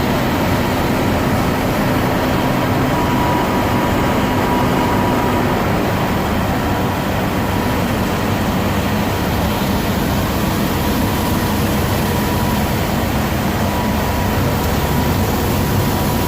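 Heavy machinery running steadily: a continuous rumble and hiss with a faint steady whine and no change in pace.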